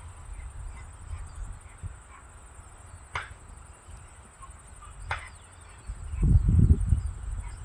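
Night-time outdoor ambience: a steady high-pitched insect trill, two sharp clicks about two seconds apart, and a low rumble that swells near the end.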